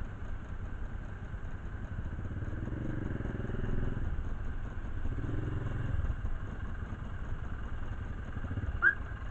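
Motorcycle engine running, its rumble swelling twice a few seconds in. A short high chirp sounds near the end.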